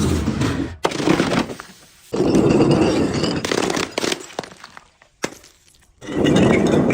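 Crunchy objects being crushed: loud crackling, cracking and snapping in several long bursts, with short pauses between them.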